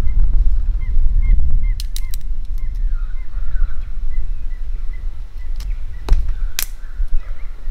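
Birds calling in short chirps over a steady low rumble, with a few sharp knocks: a quick cluster about two seconds in and several more near the end.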